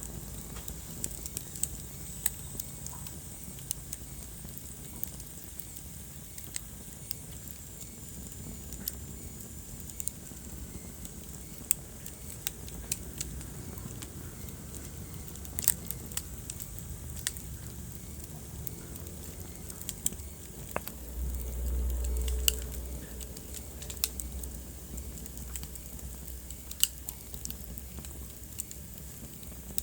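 Wood fire crackling in a fireplace: irregular sharp pops and snaps over a low rumble of the flames, which swells louder for about two seconds a little past two-thirds of the way through.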